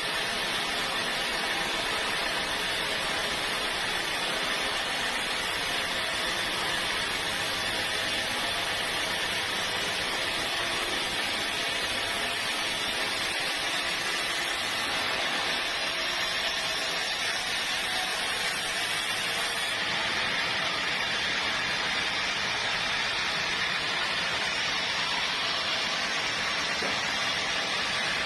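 Sawmill machinery running with a steady, unbroken hiss of noise, its level constant throughout.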